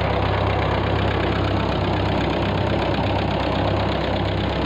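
1948 Ford 8N tractor's four-cylinder flathead gasoline engine idling steadily.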